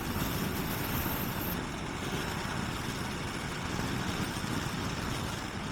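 Motorcycle cruising steadily at about 50 mph on a motorway: an even rush of wind and road noise with the engine underneath, heard on a helmet-mounted camera.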